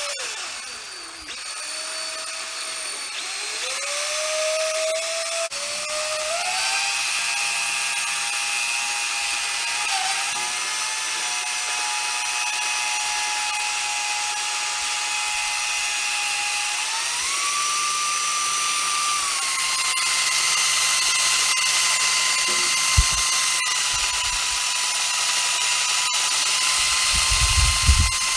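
DeWalt drill running continuously, roughening a surface to prepare it for epoxy glue. Its motor whine climbs in pitch in several steps over the first few seconds and once more after the middle, then holds steady. A few low knocks come near the end.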